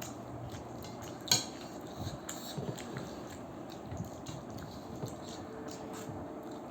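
Chopsticks clicking and tapping against a plate while momos are eaten, with a few small clicks and one sharp, louder click about a second in.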